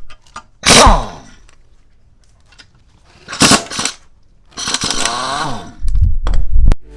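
A motor-driven tool or motor revving in three short bursts, its pitch falling as it winds down after each one, followed by a few dull knocks and a sharp click near the end.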